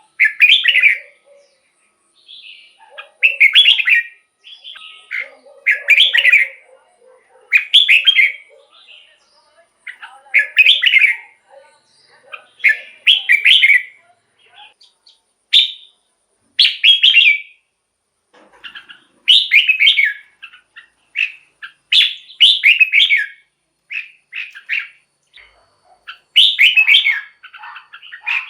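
Red-whiskered bulbul singing: short, bright warbled phrases repeated every second or two, with brief pauses between them.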